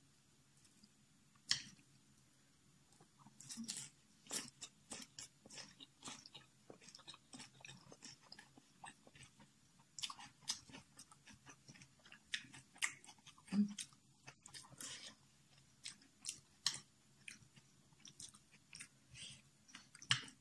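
A person chewing and biting a mouthful of Samyang spicy instant noodles, heard as many short, irregular mouth clicks.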